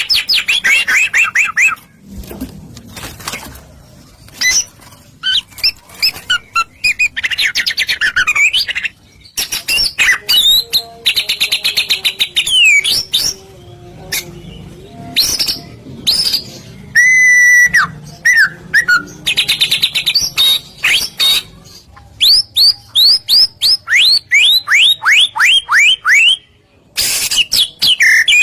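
White-rumped shama singing loudly: fast runs of repeated sharp chirps, whistled notes and trills that rise and fall, with short pauses between phrases.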